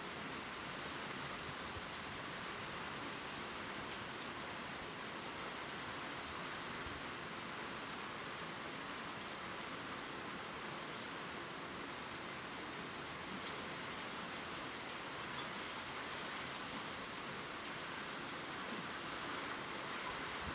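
Gentle rain falling on leaves: a steady, even hiss with scattered faint drop ticks.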